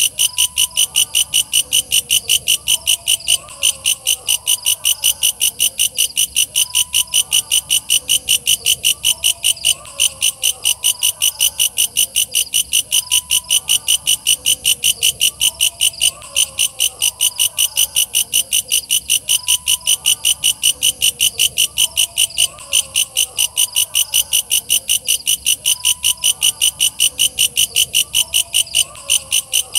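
Walang kecek katydid calling: loud, even, high-pitched pulses, about three a second, broken by a brief gap every few seconds, with fainter, lower repeating calls underneath.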